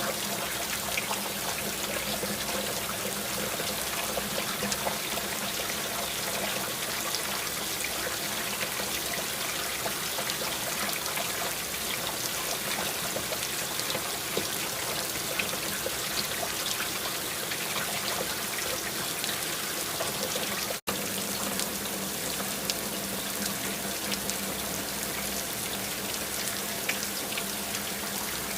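Steady rain falling, an even wash of noise dotted with many small drop ticks. The sound cuts out for a split second about 21 seconds in.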